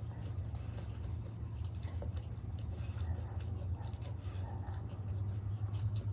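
Close-miked chewing of dahi golgappa, crisp puri shells filled with yogurt: wet mouth sounds and small crackles over a steady low hum. Near the end another whole golgappa goes into the mouth.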